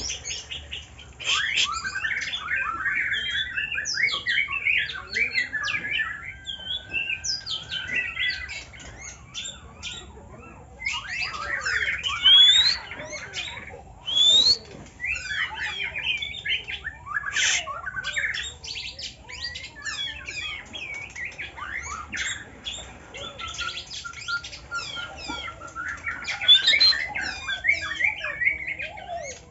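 Copsychus songbirds (the shama and magpie-robin group) singing a long, varied song of rapid whistles, rising slurred notes, trills and harsh chattering notes. There is a brief lull about a third of the way in.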